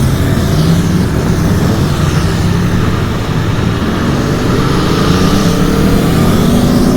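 Aprilia Tuono V4 Factory's 1100 cc V4 engine running under way, its note rising from about two-thirds of the way in as the bike accelerates.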